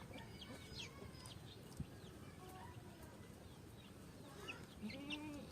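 Chicks peeping, a run of short, high chirps, with a lower call from the mother hen near the end.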